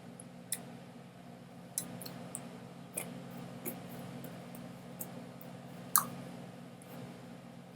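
Irregular sharp clicks and taps, about seven, over a steady low hum; the loudest click comes near the end.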